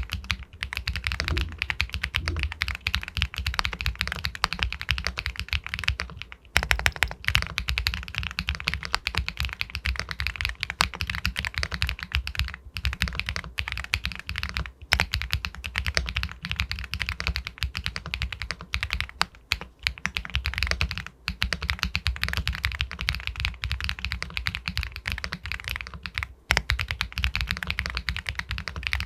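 Continuous fast typing on an Epomaker Galaxy 80 Pro aluminium mechanical keyboard with White Jade linear switches, a dense run of keystrokes broken by a few brief pauses, with some louder strokes a few seconds in.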